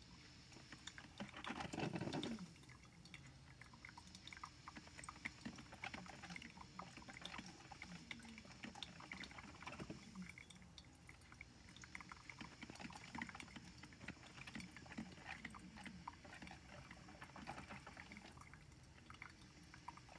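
Drip coffee maker brewing, faint irregular gurgling and sputtering of water through the machine, with a louder burst about two seconds in. The owner likens these noises to sex noises.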